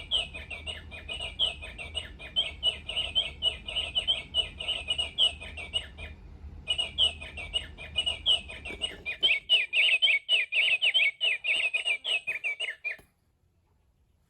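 Recorded house finch song played by a singing bird clock's small speaker: a long, lively run of quick chirps and warbles, with a short break about six seconds in. It stops abruptly about a second before the end.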